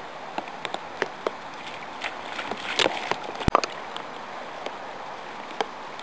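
Falling wet snow pattering on surfaces: a steady hiss with scattered light ticks, a cluster of them near the middle and one sharper knock.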